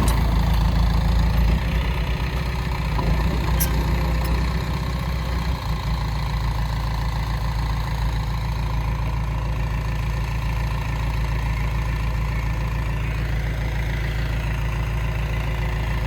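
Heavy diesel engine of earthmoving machinery running steadily, a little louder for the first few seconds and then settling to an even low run.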